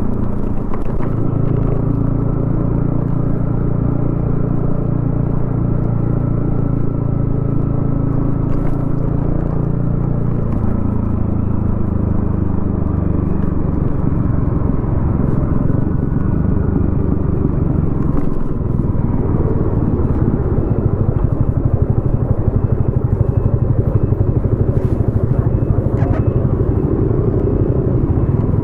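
Yamaha XSR155's single-cylinder engine running through a DIY exhaust while riding, heard from the rider's position. The engine note holds steady at first, changes about ten seconds in and again around two-thirds of the way through, then runs with a choppier, faster pulse.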